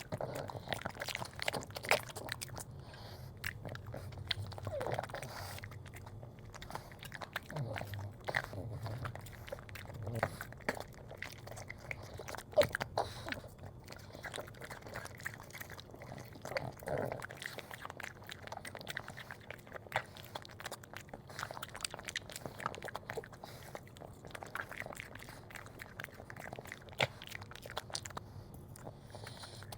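A Boston terrier chewing and crunching food, with irregular crunches and bites throughout.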